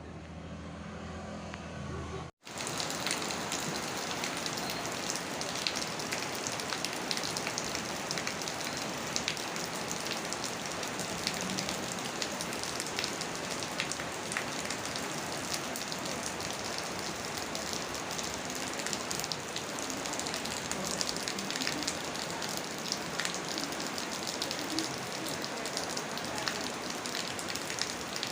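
Rain falling steadily, a dense even hiss with many fine drop ticks, starting abruptly about two seconds in after a brief low hum.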